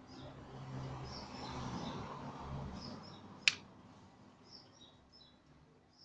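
Small birds chirping in the background, with a low rushing noise that swells and fades over the first three seconds. A single sharp click comes about three and a half seconds in.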